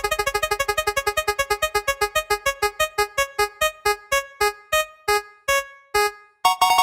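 One electronic keyboard-like note struck over and over at the same pitch, fast at first and slowing steadily until it stops. It is a decelerating sound effect, followed near the end by a held electronic tone.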